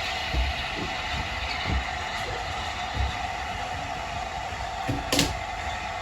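A train running on the rails with a steady rumble, a low thump about every second and a quarter, and a sharp metallic knock about five seconds in.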